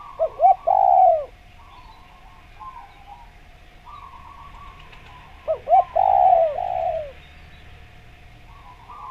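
Spotted dove (derkuku) cooing: two song phrases about five seconds apart, each made of two short notes followed by a long drawn-out coo.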